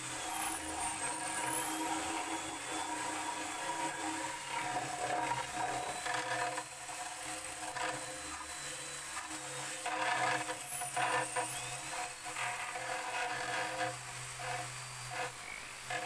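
A high-speed power tool runs with a steady motor whine and a rubbing, grinding noise, its pitch dipping briefly about a second in and again near eleven seconds.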